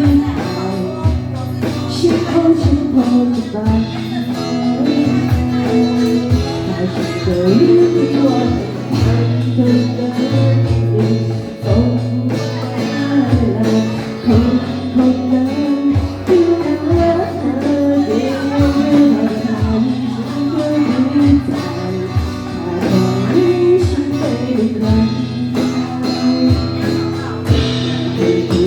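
A band playing a pop song live: singing over strummed guitar, with a drum kit keeping a steady beat.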